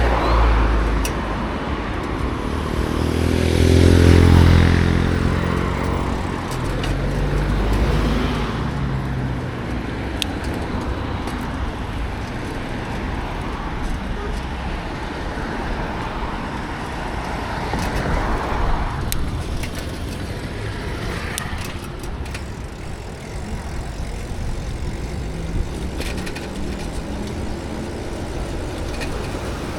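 Road traffic passing a cyclist on a city street: a vehicle engine swells past about four seconds in, and a second vehicle passes a little past the middle, over a steady hiss of road noise.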